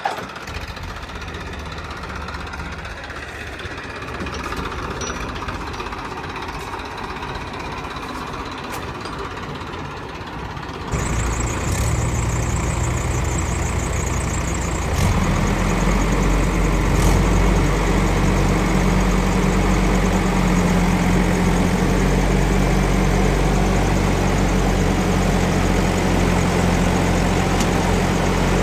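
Heavy diesel machinery engine running steadily. About eleven seconds in the sound suddenly gets louder, and from about fifteen seconds a strong, steady low engine note comes in.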